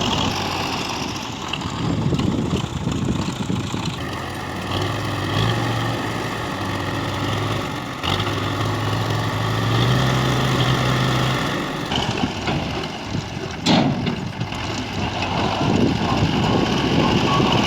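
Tractor diesel engine running under varying load, its pitch stepping up for a few seconds in the middle, with one sharp knock about 14 seconds in.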